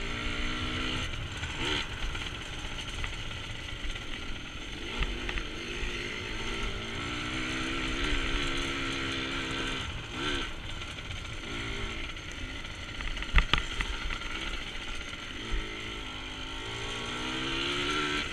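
Dirt bike engine revving up and down as the throttle is worked over rough trail ground. There are a couple of sharp knocks about three quarters of the way through.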